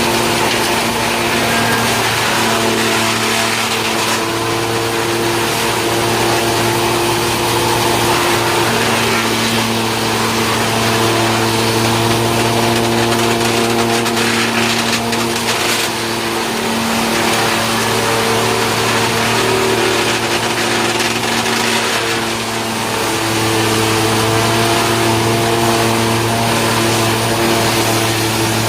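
Tractor-driven wood sawdust machine (drum chipper) running continuously: a steady engine and machine hum under a dense rushing grinding noise, with the hum's pitch shifting slightly a few times.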